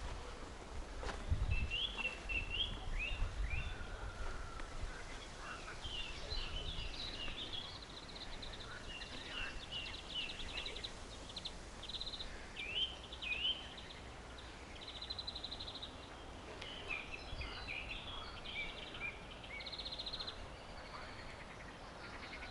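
Songbirds singing in a forest: several birds overlapping with short chirps, quick falling notes and rapid trills. Some low thumps during the first few seconds.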